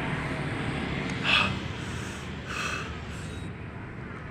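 A person drawing sharp, hissing breaths through the mouth, three times, the loudest about a second in, reacting to the burn of spicy chili. A steady hum of street noise lies under it.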